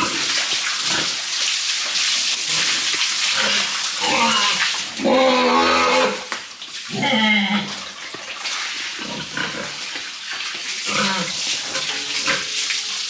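Water spraying and splashing steadily as pigs are washed down in their sty. Around the middle, and again later, pigs give a few drawn-out calls over the water.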